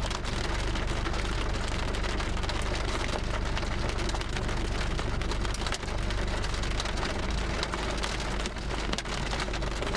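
Rain falling steadily on a vehicle: a dense spray of fine drop hits over the low rumble of the car.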